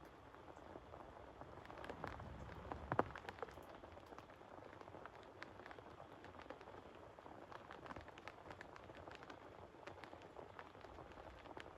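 Steady rain falling, with many separate drops striking sharply, a little heavier two to three seconds in.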